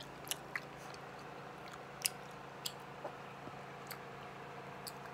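Gum chewing close to the phone's microphone: a few irregular, sharp mouth clicks and smacks over a faint steady hum.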